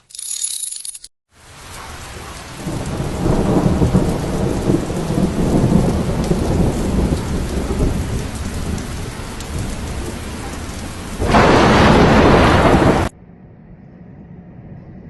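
Heavy rain with thunder rumbling through it, the rumble strongest through the middle. Near the end the rain grows louder for about two seconds, then cuts off suddenly, leaving a much quieter steady sound.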